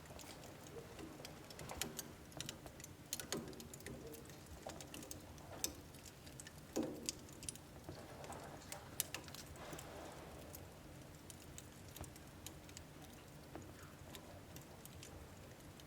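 Wood burning in an indoor wood stove: quiet, irregular crackles and pops, a few each second, with a handful of louder pops over a faint low rush of the fire.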